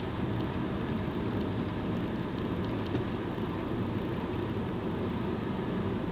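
Car driving steadily at speed on a highway: a constant rumble of road and engine noise.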